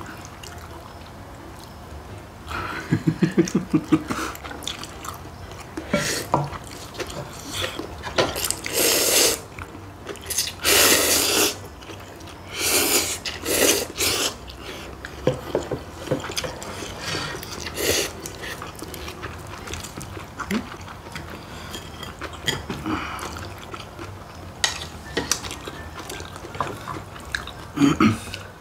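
People slurping instant ramyun noodles from their bowls: a run of loud, wet slurps, heaviest about a third to halfway through, with quieter chewing sounds between.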